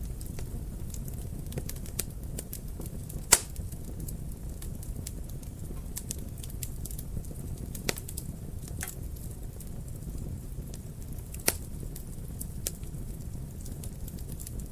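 Wood fire in a fireplace crackling: a steady low rumble with scattered sharp pops and snaps, one loud pop about three seconds in and another in the last third.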